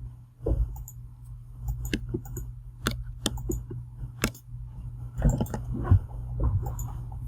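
Irregular, scattered clicks from a computer mouse and keyboard, a dozen or so sharp clicks over a steady low hum.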